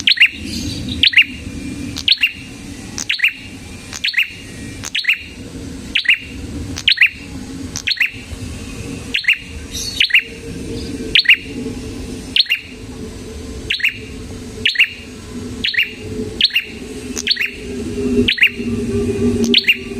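Red-headed prenjak calling incessantly: a long run of sharp, evenly spaced chip notes, a little under two a second. A low steady hum sits underneath, louder near the end.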